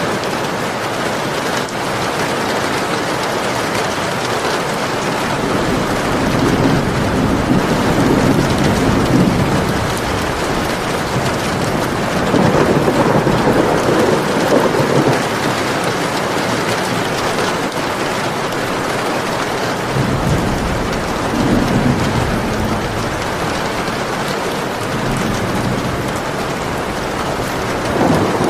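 Steady heavy rain falling, with rolls of distant thunder that swell and fade several times.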